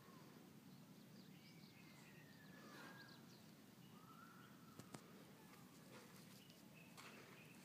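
Very quiet outdoor ambience with a few faint bird calls, thin sliding whistles and small chirps, and one sharp click about five seconds in.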